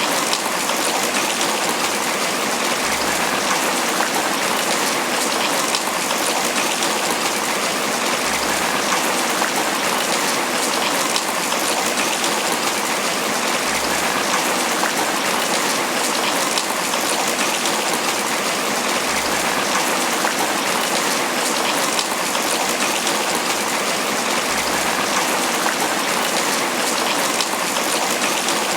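Steady tropical rain pattering on banana leaves, a dense, even spatter of drops with no let-up.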